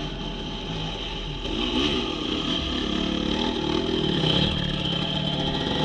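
Dirt bike engine revving, its pitch rising and falling as the throttle is opened and closed.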